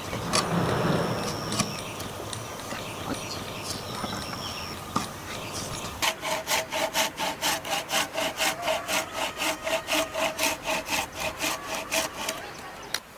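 Hand saw cutting wood with quick, even back-and-forth strokes, about four a second, starting about halfway through and stopping shortly before the end. Light taps and clicks of wood before the sawing begins.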